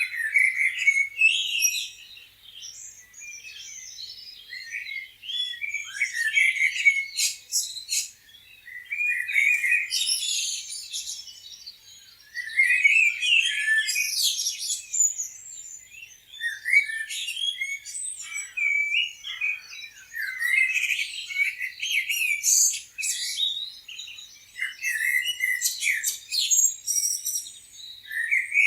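Several songbirds singing and chirping, with overlapping high-pitched phrases and quick trills coming in clusters every second or two.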